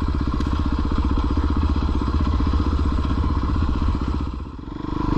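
Dirt bike engine running at low revs with an even pulse. About four and a half seconds in the throttle closes briefly, then it opens again with a louder, higher note.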